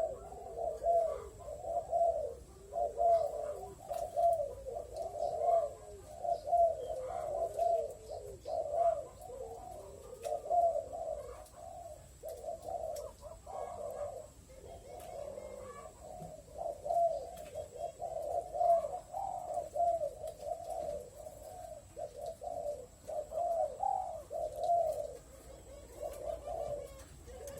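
Spotted doves calling: a steady run of short, low coo-like notes repeated about once or twice a second.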